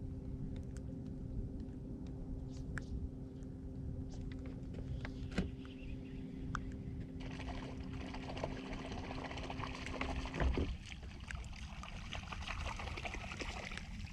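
Low wind rumble on the microphone with a steady hum that cuts out about ten and a half seconds in. Water splashing and trickling over the last seven seconds.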